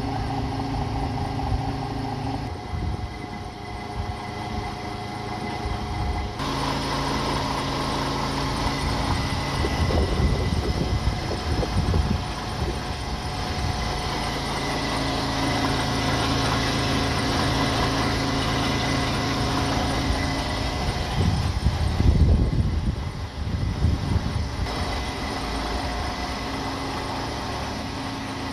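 DAF XF 510 truck's six-cylinder diesel engine idling steadily. Heavier irregular low rumbles come in about a third of the way through and again about three-quarters through.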